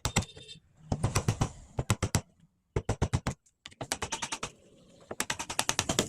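Rapid runs of sharp taps, many a second, in clusters broken by short pauses.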